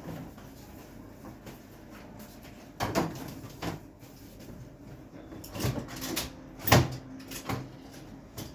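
Plastic clicks and knocks from the freezer compartment door of a Beko refrigerator being handled and worked loose, several sharp ones in two clusters, the loudest a little over two thirds of the way through.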